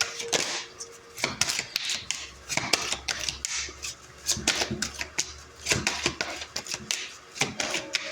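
A deck of Lenormand cards being shuffled by hand: a run of quick, crisp clicks and slaps as the cards are handled.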